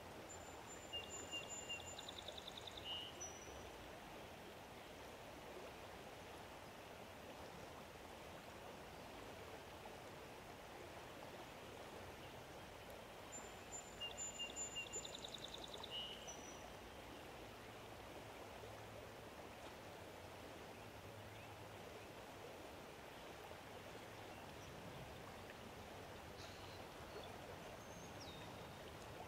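A songbird sings the same short song twice, about twelve seconds apart: a high whistled note, a lower note, then a quick trill ending on a high note. A steady faint outdoor hiss runs underneath, and a few faint chirps come near the end.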